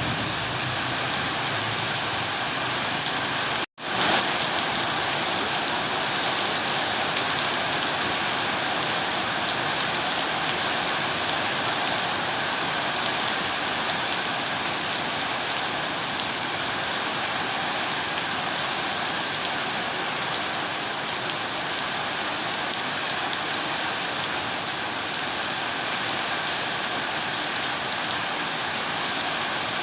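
Steady rain falling, an even hiss of many drops on a surface. The sound cuts out for a split second about four seconds in.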